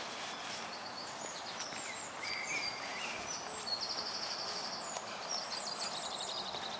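Small birds singing and chirping over a steady background hiss, with a quick trill about halfway through.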